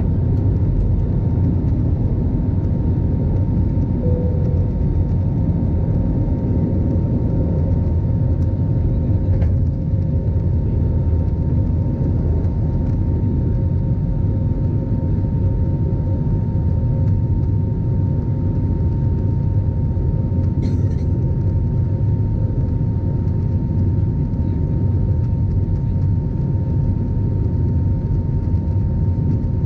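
Airbus A320 jet engines running in a steady low rumble, with a steady high tone held over it throughout.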